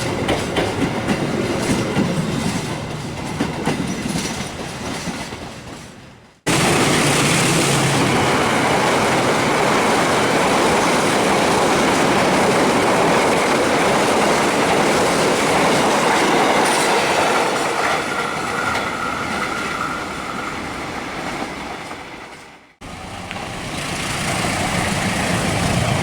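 A train running past on the rails, its wheels clattering over the track joints. The sound fades and cuts abruptly twice, about six seconds in and near the end, to another passing train.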